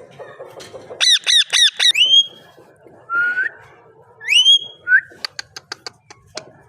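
Indian ringneck parakeet calling: quiet low chatter, then about a second in a quick run of five harsh screeches ending on a rising note, followed by a few rising whistled notes and a rapid string of clicks.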